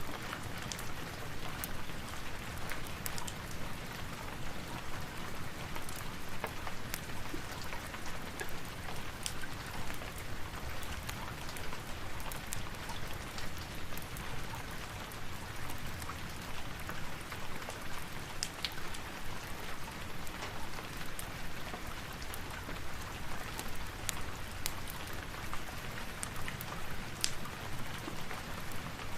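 Steady rain falling, with scattered sharp drip-like ticks.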